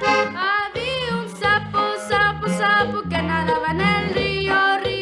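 Button accordion playing a lively norteño tune: melody notes over a steady bass pattern, easing down near the end.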